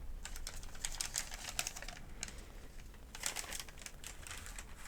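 Paper medication guide sheets being handled and crinkled: two bursts of crisp crackling, the second starting about three seconds in.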